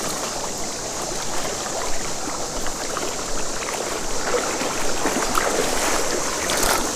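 Creek water rushing steadily over rocks, with scattered small splashes.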